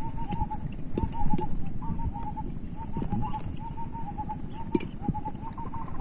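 A bird calling over and over in quick runs of short, even notes. Under it, water sloshing with scattered splashes and knocks as a bamboo push net is worked through the water hyacinth.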